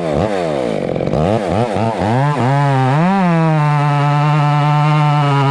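Gas chainsaw running, its engine speed rising and falling several times, then held steady at high revs.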